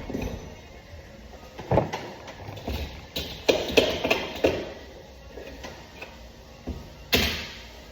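Irregular knocks and clanks of work on sheet-metal HVAC ductwork: a single knock, then a quick cluster of several, and a louder bang near the end.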